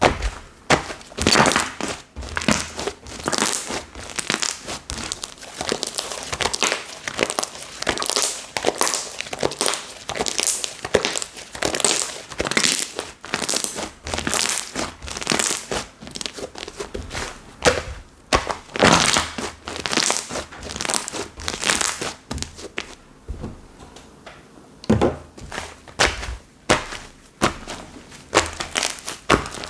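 Slime being squished, pressed and folded by hand, making a dense, irregular run of short crackling pops and squelches, with a brief lull a little after twenty seconds in.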